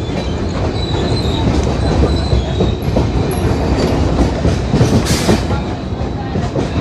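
Passenger train running along the track, its wheels clattering over rail joints in a dense, uneven rumble, with a faint thin wheel squeal in the first half and a short hiss about five seconds in.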